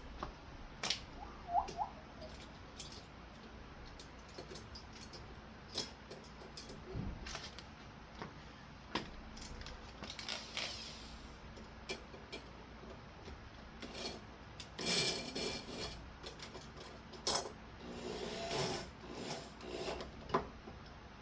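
Scattered clicks, clinks and short scraping of metal ceiling-fan mounting hardware being handled and screwed up to the ceiling by hand, with a longer spell of scraping near the middle and again towards the end.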